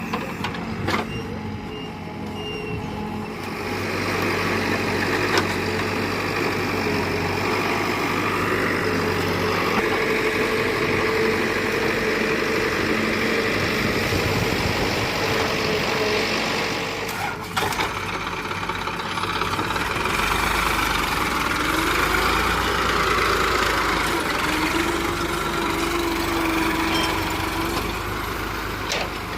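Diesel engine of a tractor working in mud, running steadily with its speed rising and falling. It breaks off sharply about 17 seconds in and carries on.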